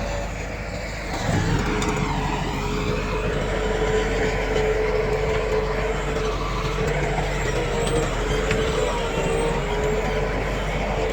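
Diesel engine of heavy earthmoving machinery running steadily, with a constant whine over the low engine noise, getting louder about a second and a half in.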